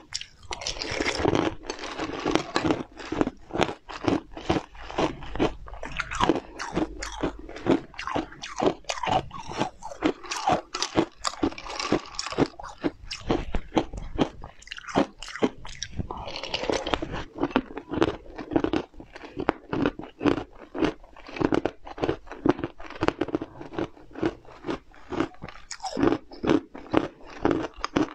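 Close-miked eating: a person biting and chewing mouthfuls of small round morsels from a spoon, with a quick, steady run of crunchy bites and wet chewing sounds.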